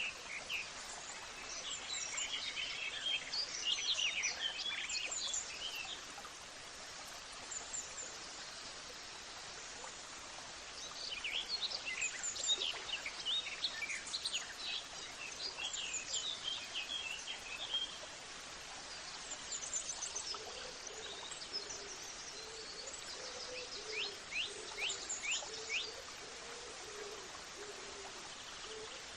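Birds chirping and singing over a steady background hiss, in three bouts of quick high chirps with quieter gaps between. A low wavering call joins about two-thirds of the way through and carries on to the end.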